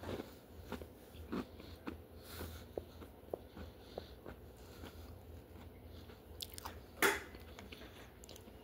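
Close-up chewing and biting of crunchy Dunkaroos vanilla cookies, a run of small irregular crunches and mouth clicks, with one louder sharp noise about seven seconds in.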